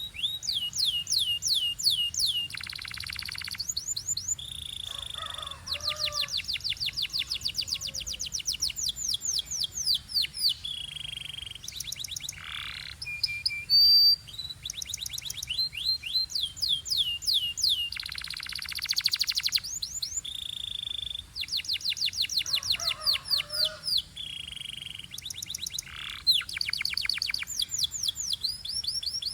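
Canary singing continuously: long trills of rapidly repeated falling notes that alternate with steady whistled notes and rolling trills.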